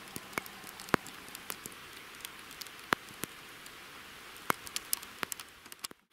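Rain falling steadily, a soft even hiss broken by irregular sharp taps of single drops landing close by.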